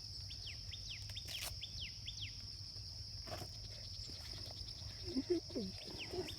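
Forest ambience: a steady high insect drone, with a bird repeating short, quickly falling chirps. About five seconds in, a few louder, lower sounds stand out briefly.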